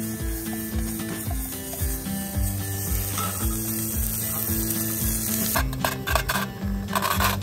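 Food sizzling in a pan: a mix of beans, corn, potatoes and sausage frying, heard as a steady hiss under background music with a steady beat. About five and a half seconds in, the sizzle gives way to rougher, irregular scraping noise.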